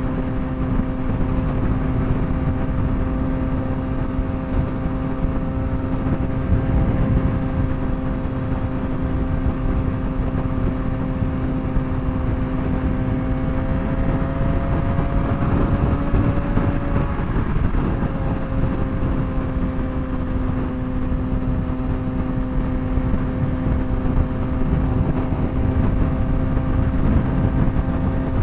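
Straight-piped 2007 Suzuki GSX-R600 inline-four engine holding a steady highway cruise, with wind rush. About two-thirds through, the note rises slightly and drops out for a moment before settling back to the same steady pitch.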